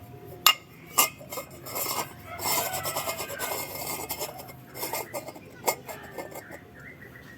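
Metal parts and tools knocking and clinking, with a stretch of scraping and rubbing in the middle, during work on an electric fan's motor. Sharp knocks come about half a second and a second in and again near the end.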